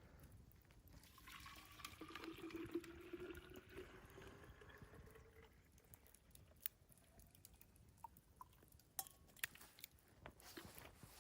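Faint sound of near-boiling water being poured into a water bottle, the pouring tone rising in pitch as the bottle fills over a few seconds. A few faint clicks follow.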